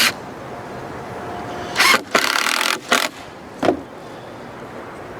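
Power drill boring out a hole in a wooden brace, cutting through the wood in a loud burst of about a second and then a short one.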